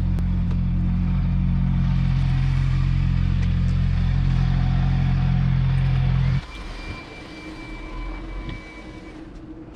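Motorcycle engine idling steadily, then switched off: the low engine note cuts out abruptly about six seconds in, leaving quiet street ambience.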